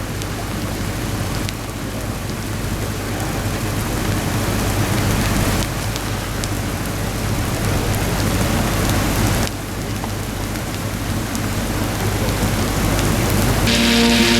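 Heavy rain pouring steadily, with a few abrupt jumps in level where the audio is cut. Music with sustained chords comes in near the end.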